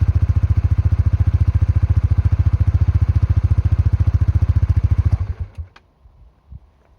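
Suzuki GSX-R125's liquid-cooled single-cylinder four-stroke engine idling steadily through its stock muffler, a rapid even pulse, then shut off about five seconds in, leaving only a few faint clicks.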